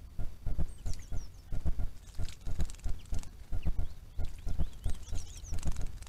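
Short high bird calls, a few quick descending notes about a second in and again near the end, over a loud run of low, irregular pulses several times a second.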